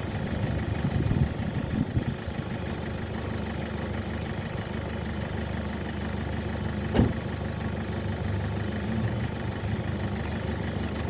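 A car engine idling steadily, with one sharp knock about seven seconds in.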